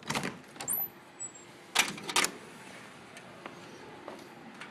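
A door being opened: a brief high squeak just under a second in, then two sharp clunks close together about two seconds in, with a few lighter knocks around them.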